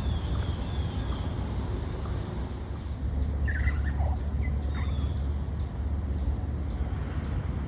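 Wind rumbling on the microphone, with a few short, high squeaks from a small animal about three and a half to five seconds in.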